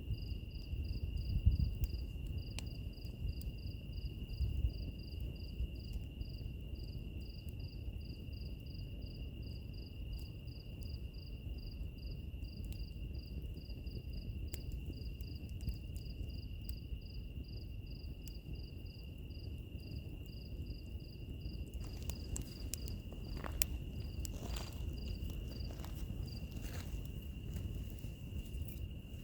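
Wood fire crackling, with a low rumble and scattered sharp pops, under a steady high insect trill and a cricket chirping in a rapid even rhythm. The chirping fades out a few seconds before the end, while the pops become more frequent.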